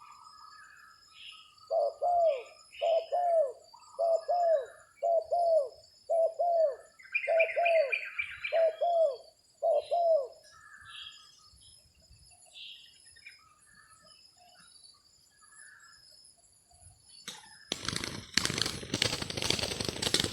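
Spotted dove cooing: eight evenly spaced coos about a second apart. Smaller birds chirp around it over a steady high insect drone. Near the end comes a loud burst of rustling, crackling noise.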